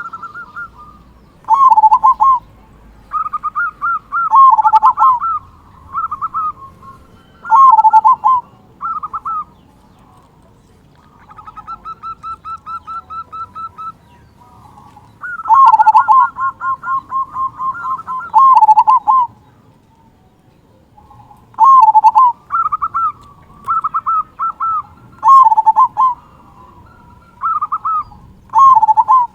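Zebra dove (perkutut) singing its cooing song: short phrases repeated every second or two, each a quick run of notes ending in a deep coo. A quieter run of rapid, evenly spaced notes comes near the middle.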